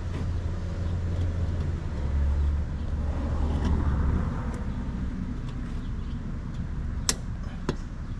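A vehicle passing by: a low rumble that swells and fades over the first five seconds, followed by two sharp clicks about seven seconds in.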